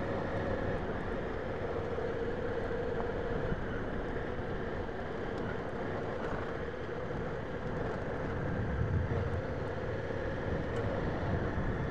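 Honda Africa Twin CRF1000L's parallel-twin engine running at a steady pace as the motorcycle rides along a dirt track.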